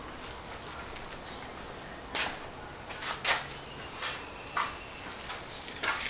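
Hands handling a small marine reading light: about six short scrapes and clicks, spread irregularly.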